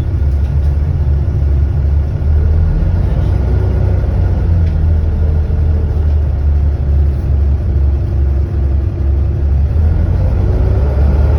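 Volvo B7TL double-decker bus's diesel engine running with a steady low rumble, with faint whining tones that rise and fall in pitch above it.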